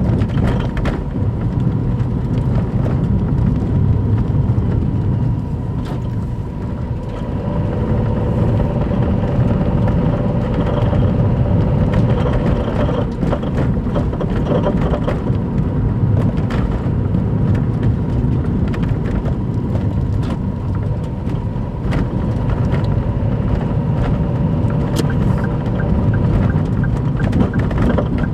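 Daihatsu Move Custom RS (L175S) three-cylinder 660 cc engine running with a steady low rumble and a few faint clicks. The engine is noisy because its engine mount bushing has worn and torn.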